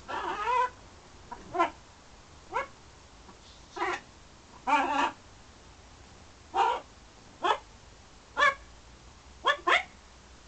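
Blue-and-gold macaw calling: a string of about ten short, pitched squawks at irregular intervals, a few rising in pitch, with one longer call about five seconds in.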